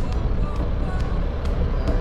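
Road vehicle running with a steady low rumble, music with a quick ticking beat playing over it.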